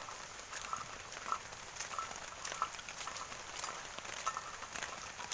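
Rain falling steadily as a high hiss, with irregular drops ticking close by.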